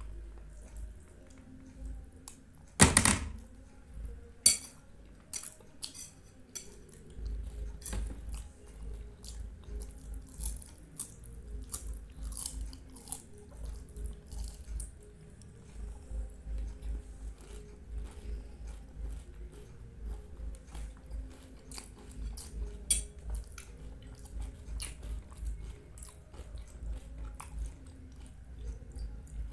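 Close-up chewing of soft, syrupy Indian sweets, with a steady run of wet mouth smacks and a few sharper clicks, the loudest about three seconds in.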